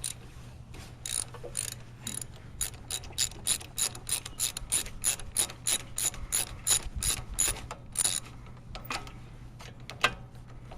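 Socket ratchet wrench clicking in quick, even strokes, about three or four clicks a second, as it works a spark plug on a small mower engine. A few slower, scattered clicks follow near the end.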